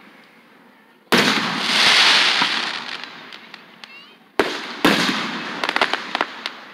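Aerial fireworks shells bursting: a loud boom about a second in that rolls away slowly, then two more sharp booms in quick succession, followed by a rapid run of crackles.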